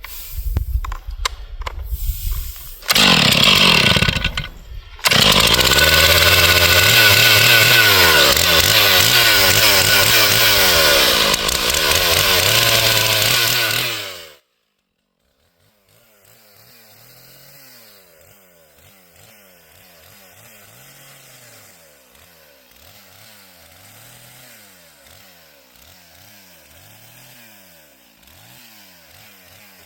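Stihl MS 461 two-stroke chainsaw started up and running loud with revving for about ten seconds, then cutting off suddenly. After a short gap, a much fainter engine rises and falls in pitch every couple of seconds.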